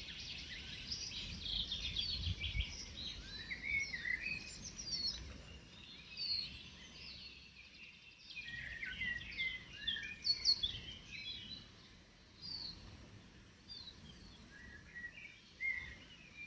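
Several wild songbirds singing at once in woodland, a dense chorus of chirps and warbled phrases that thins out towards the end, with a brief low rumble about two seconds in.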